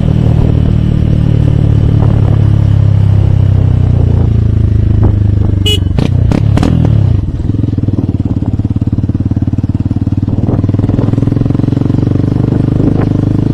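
Hero Hunk's single-cylinder four-stroke motorcycle engine running under way, then, after a few sharp clicks about halfway through, dropping to a quieter, steady idle.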